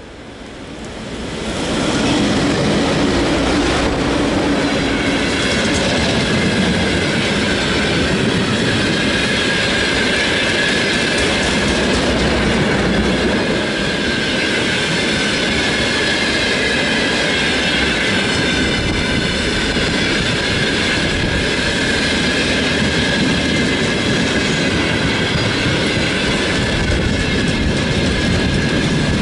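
Freight train of tank cars hauled by a VL10 electric locomotive passing close by, its wheels running steadily on the rails. The sound builds over the first two seconds as it arrives and then stays loud and even.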